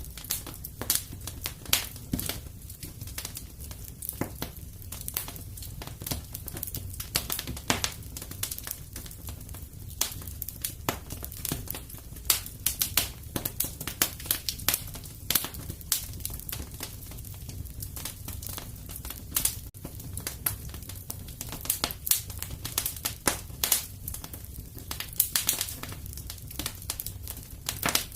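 Fire in a fireplace crackling: dense, irregular sharp pops and snaps, some louder than others, over a steady low rumble.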